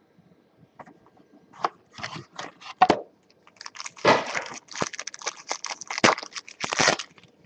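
A trading-card box being opened: packaging torn and crinkled in irregular crackling bursts, busiest in the second half.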